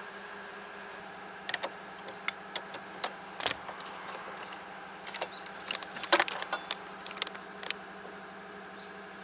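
Toyota Esquire minivan in motion: irregular sharp clicking and knocking rattles over a steady hum. This is the abnormal driving noise that the uploader links to the shock absorbers.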